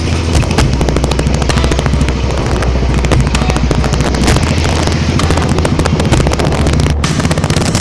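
Motorcycle engine running steadily while wind buffets the microphone with dense crackling gusts.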